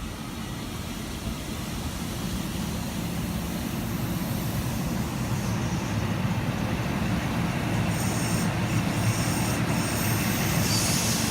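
Endeavour diesel railcar set running at the platform, a steady low engine sound that grows gradually louder as the train gets ready to depart.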